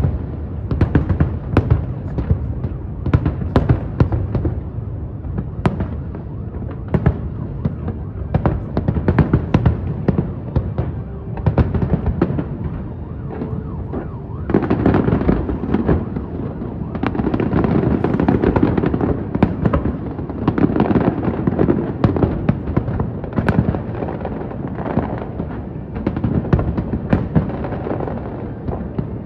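Fireworks display: a continuous barrage of bangs and crackling bursts, denser and louder from about halfway through.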